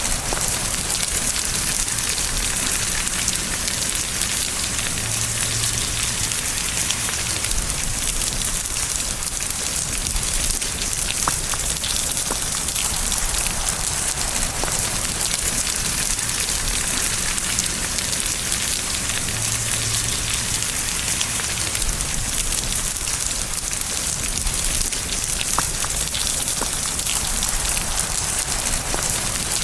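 Steady rain falling, an even hiss with a few individual drops ticking through it.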